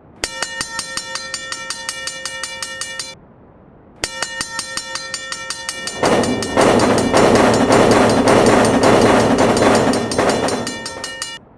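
Railroad crossing warning bell ringing rapidly, about five strikes a second; it stops for about a second, starts again, and a few seconds later a train passes with a loud, steady rushing rumble that lasts about five seconds and cuts off near the end.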